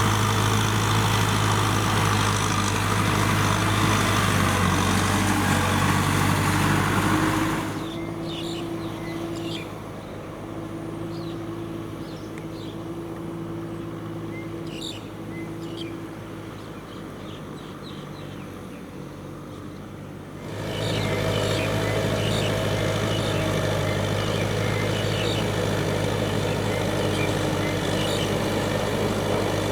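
Kubota M6040SU tractor's diesel engine running steadily. About 8 seconds in it drops suddenly to a quieter, steady hum with faint short chirps over it, and about 20 seconds in it comes back loud just as suddenly.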